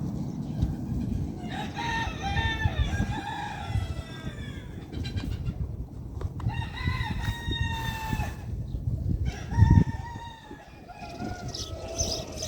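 Rooster crowing several times, each crow a long drawn-out call of a second or more, over a low steady rumble.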